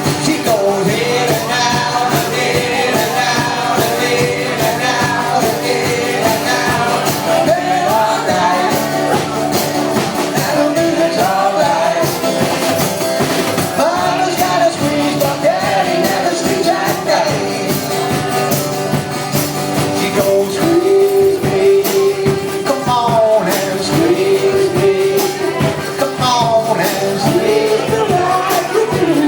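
Live music led by a squeeze box playing held chords, with a voice singing and a steady percussion beat.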